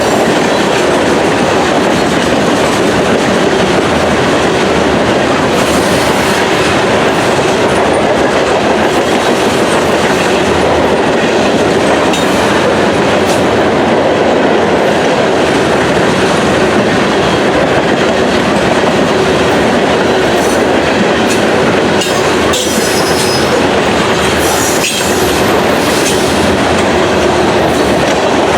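Train cars rolling past on the rails: a steady, loud clatter of wheels over the track.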